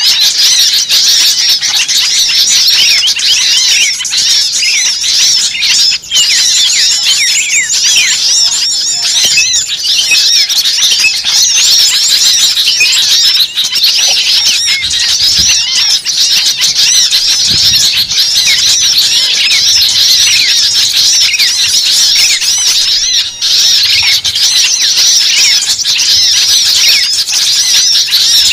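Dense, frantic chorus of many small birds calling at once: rapid overlapping chirps, squeaks and squeals with no let-up. It is a mixed-species bird-trapping lure recording (suara pikat ribut) made to draw small birds in.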